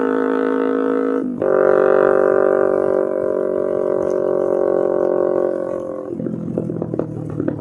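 Kawasaki Ninja 250R's parallel-twin engine through a loud Austin Racing aftermarket exhaust, running at steady revs under way. About a second in the note cuts briefly and comes back higher. Near the end it drops off to a lower, uneven note with pops.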